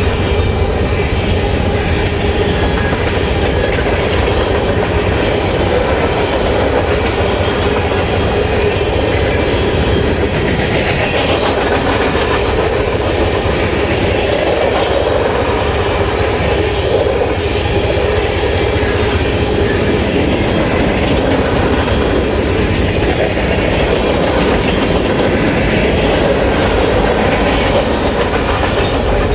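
Freight cars of a Union Pacific mixed freight train rolling past. The steel wheels keep up a steady rumble and clatter over the rails at an even, loud level.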